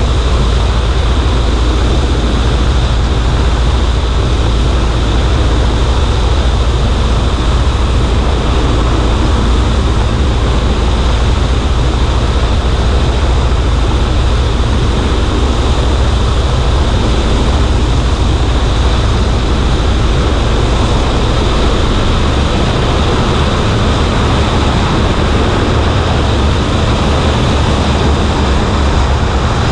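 Cessna 140A's engine and propeller running steadily in flight, mixed with heavy wind rush on a wing-mounted camera. The deepest rumble eases slightly about three-quarters of the way through.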